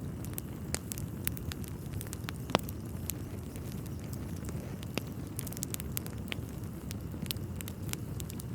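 Wood fire burning in a fireplace: irregular sharp pops and snaps from the logs over a steady low rumble of the flames, with one louder pop about two and a half seconds in.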